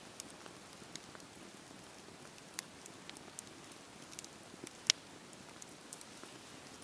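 Wood fire crackling in a fireplace: a soft steady hiss with scattered sharp pops, the loudest about five seconds in.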